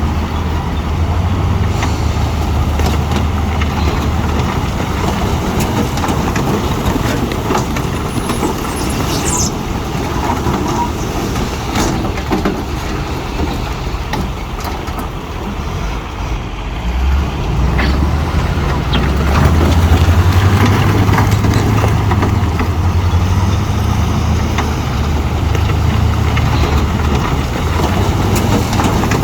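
Diesel engine of heavy earthmoving machinery working under load, with a deep engine note that weakens for a while, then climbs back and stays strong through the second half, with scattered knocks over it.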